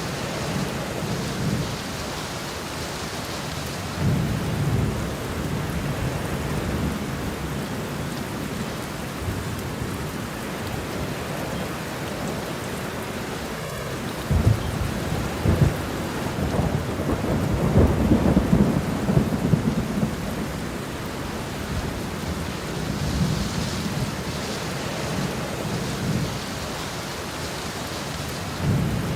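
Steady rain falling, with low thunder rolling through it several times. The heaviest thunder comes about halfway through, with a few sharp cracks.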